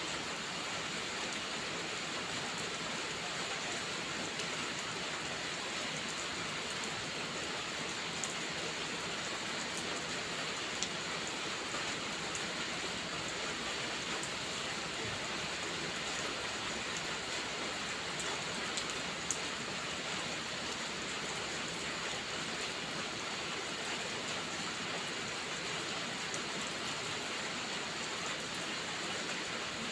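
Steady heavy rain, an even hiss of falling water, with a few sharp crackles from a wood fire in a fireplace.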